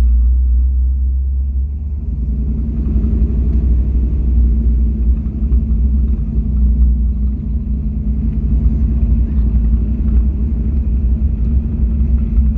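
Car engine running at low, steady revs, a deep continuous rumble with a steady hum above it.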